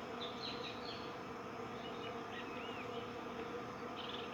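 A steady buzzing drone holding several pitches, with a few faint short high chirps over it.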